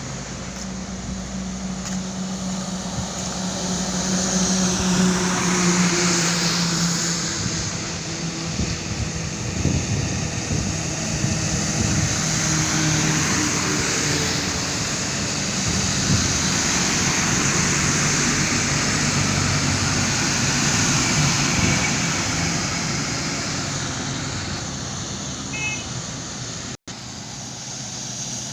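Truck driving on a highway: steady engine and road noise, the engine's pitch drifting up and down, with a brief cut-out of all sound near the end.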